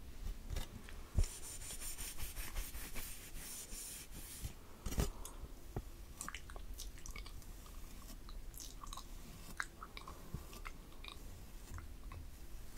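Close-miked ASMR mouth sounds: a scattered run of small wet clicks and smacks, with a hissing rustle over the first few seconds and two louder knocks, about a second in and near five seconds.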